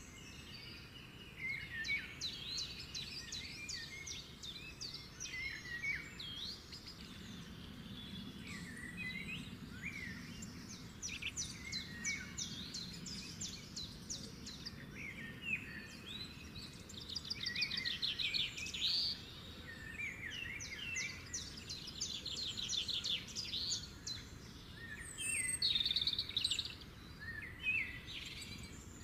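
Birds chirping and singing, with quick chirps and fast trills of rapidly repeated notes coming and going, over a steady background hiss.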